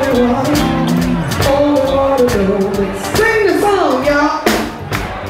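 A woman singing a soul-blues song over a band, her held notes bending in pitch, with regular drum hits; a long falling vocal run about three seconds in.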